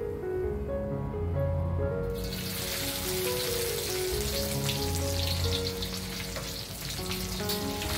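Dried anchovies (ikan bilis) deep-frying in hot oil in a wok, a dense sizzle that starts suddenly about two seconds in, over background music.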